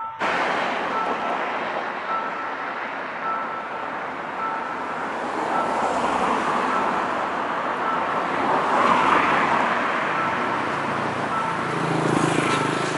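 Electric commuter train approaching along the line, a steady rushing running noise that swells a little toward the end. A pedestrian-crossing warning buzzer beeps in short, evenly spaced tones throughout.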